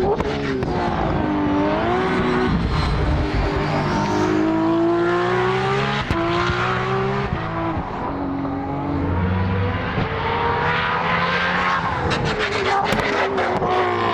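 Race car engines under hard acceleration on a circuit. Their pitch climbs and drops again and again through gear changes, with more than one car audible at once. Near the end comes a quick run of sharp exhaust crackles.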